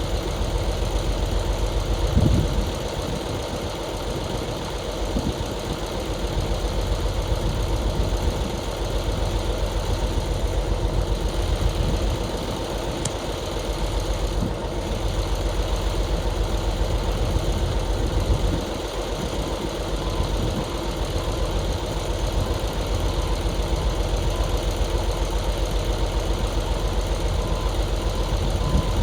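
Diesel dump truck engine running and rising and falling in load, with a reversing alarm beeping steadily from about two-thirds of the way in.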